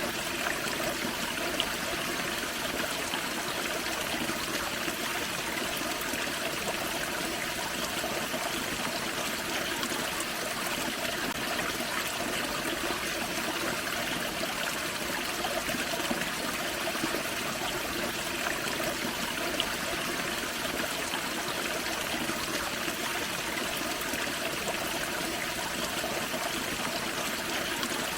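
Small waterfall on a forest creek: water splashing and burbling over rocks in a steady, unbroken rush.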